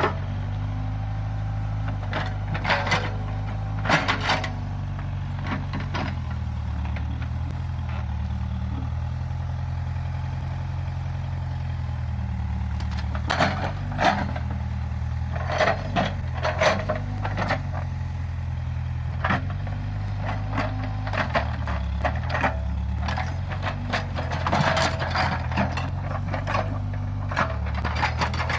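Case 580G backhoe loader's diesel engine running under changing load, its pitch stepping up and down, with clusters of sharp cracks, knocks and rattles.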